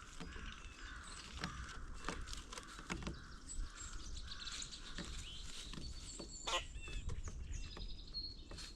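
Several wild songbirds chirping and calling over one another, with scattered sharp clicks and taps.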